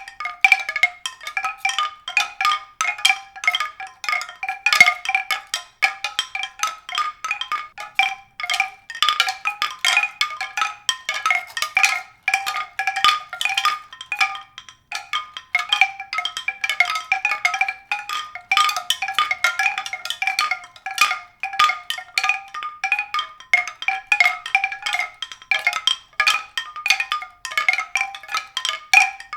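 A dense, continuous stream of short, high-pitched struck notes, like tuned mallet percussion, tinkling irregularly several times a second with no bass beneath.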